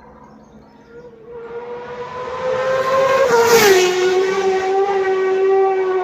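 Superbike racing motorcycle at full racing speed, approaching with its engine note growing louder, then dropping sharply in pitch as it passes about three and a half seconds in, and going away on a lower note.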